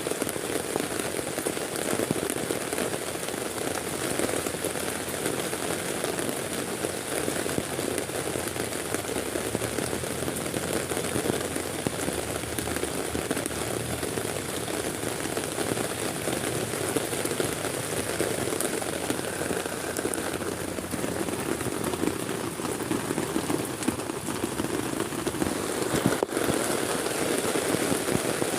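Heavy rain falling steadily on a tent, a dense, even hiss of many small drop impacts.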